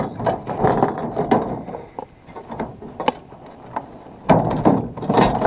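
Fishing reel being cranked, its gears clicking and rattling in two spells with a quieter gap between.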